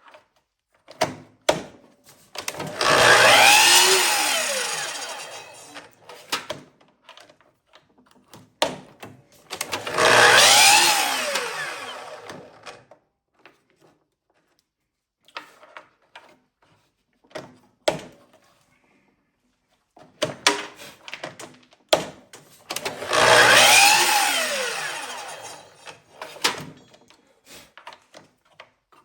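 Miter saw making three cuts through small wood segments: each time the motor starts, the blade cuts, and it winds down with a falling whine. Short clicks and knocks of clamping and handling the pieces come between the cuts.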